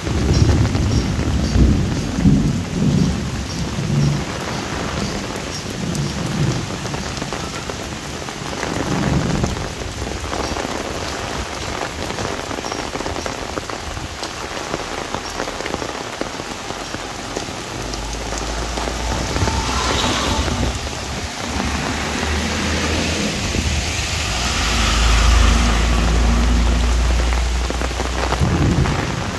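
Heavy monsoon rain pattering steadily on an umbrella, with a run of low thuds in the first ten seconds. Thunder rumbles through the second half and is loudest near the end.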